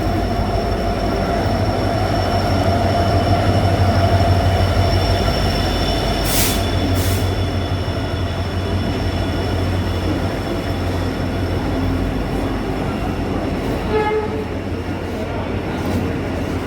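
Passenger train rolling into a station: a steady rumble of coaches on the track with steady wheel squeal, two short sharp hisses a little past halfway, and a brief pitched tone near the end.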